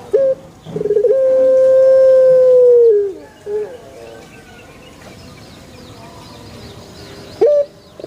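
Male puter dove (domesticated ringneck dove) cooing: a short note, then a long drawn-out coo held steady for about two seconds that drops in pitch at its end, followed by a brief falling note. Another coo begins near the end, and faint high chirps of small birds come through in the pause.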